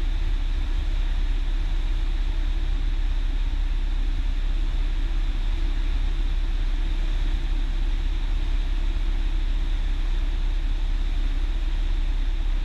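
Cessna 172's engine and propeller running steadily, heard from inside the cockpit as an even, low drone.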